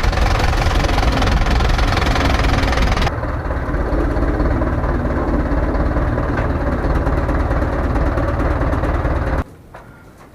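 An engine running steadily and loudly. Its sound changes abruptly about three seconds in, and it cuts off suddenly shortly before the end.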